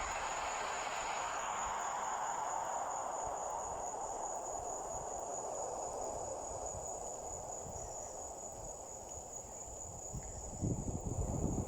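Crickets chirring in a steady, unbroken high trill, over a soft rushing hiss that slowly fades. Low irregular bumps come in near the end.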